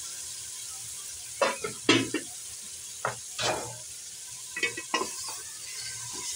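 Raw chicken pieces sizzling in hot oil and masala in a metal pot as they are browned, with a spatula scraping and knocking against the pot in several separate strokes, the loudest about two seconds in.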